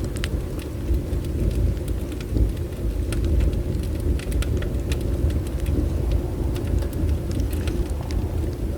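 Bonfire burning: a steady low rumble of flames with scattered sharp crackles and pops of the burning wood.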